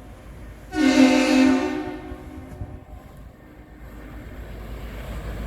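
Tugboat's air horn giving one deep blast about a second long, starting a little under a second in and dying away.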